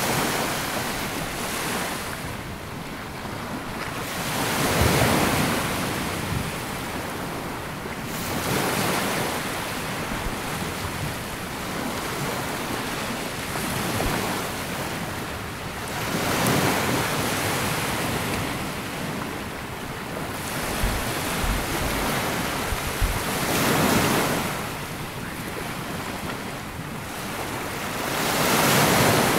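Small sea waves breaking and washing up a sandy beach, one after another; each surge swells and fades over a few seconds.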